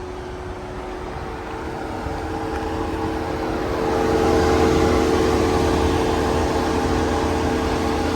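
A steady mechanical hum with a few fixed tones over a low rumble, growing louder and then levelling off about four seconds in.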